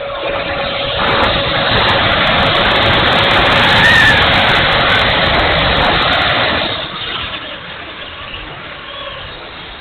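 Electric ducted fan of a 70mm E-flite F-16 RC jet in flight: a loud, rushing whoosh that swells about a second in, holds, then falls away about seven seconds in as the jet moves off.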